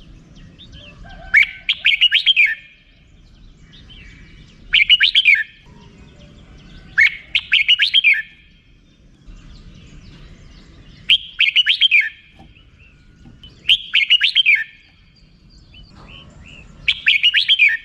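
Red-whiskered bulbul giving its rapid 'rik-rik-rik' chatter call in six short bouts, each about a second long, a few seconds apart.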